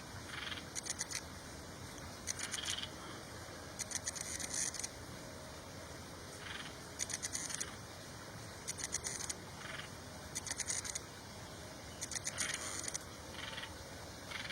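Small bird calling: about seven short, high-pitched, rapid buzzy chattering phrases, each under a second and about one to two seconds apart, with softer, lower single notes in between.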